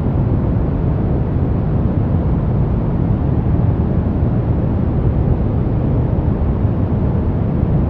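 Brown noise: a steady, deep hiss weighted toward the low end, with no changes.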